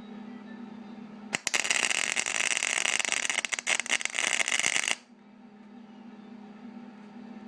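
MIG welder arc crackling for about three and a half seconds, starting about a second and a half in and cutting off suddenly, as it welds a sheet-metal patch seam on a car's lower cowl. A steady low hum runs underneath.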